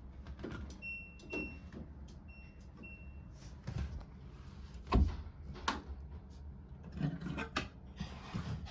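Plastic clicks and knocks from handling the drain pump filter area and access cover of a front-load washing machine, with one louder knock about halfway through. A few short high electronic beeps sound in the first few seconds.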